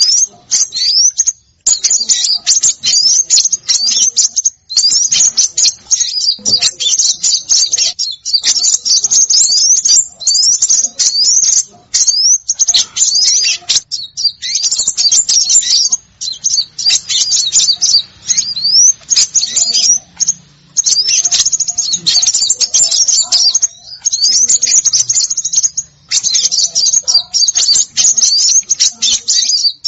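Small songbirds calling in a dense, high-pitched chatter of rapid chirps, many of them quick upward-sweeping notes. The calls come in bursts of a second or two with short breaks between them. This is a bird-lure call recording, which the title names as mixing small birds such as sunbirds and scarlet minivets.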